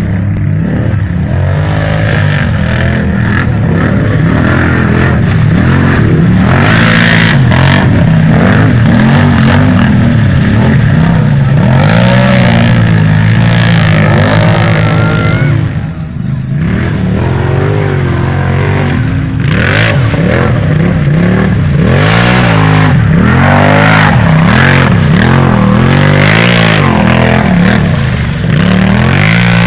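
Several quad bike engines racing, revving up and down as the machines accelerate and brake, with a short lull about halfway through.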